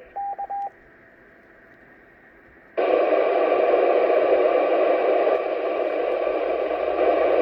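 Amateur radio transceiver: a short beep, then a faint hiss, then loud steady static hiss that switches on suddenly about three seconds in.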